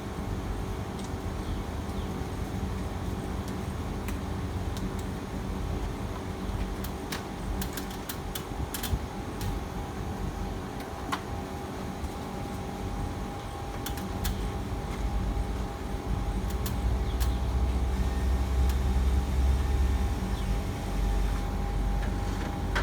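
Steady machine hum with a few fixed tones and scattered light clicks; a low rumble grows louder in the second half.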